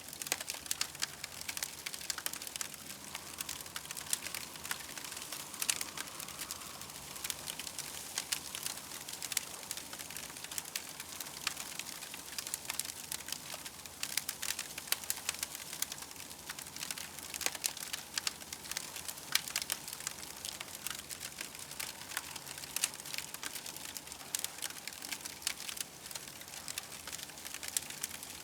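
Campfire crackling, with dense irregular pops and snaps over a steady hiss.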